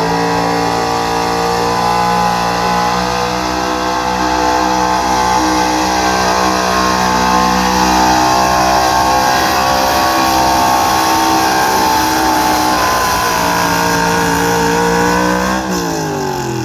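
Gasoline engine of a 1984 Ford pickup held near full revs under load while pulling the sled in a street-class truck pull, the pitch wavering slightly. About a second before the end the revs drop off quickly as the throttle is let off at the end of the pull.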